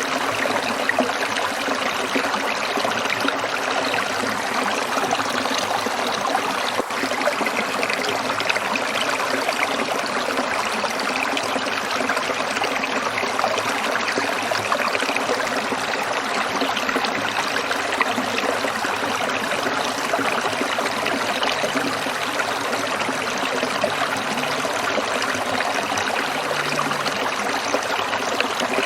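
Stream water trickling and splashing in a steady, unbroken flow.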